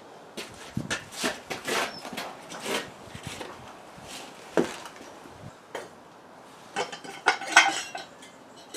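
Irregular metallic clinks, knocks and short scrapes of metal parts and hand tools being handled and fitted, with the loudest cluster of clatter near the end.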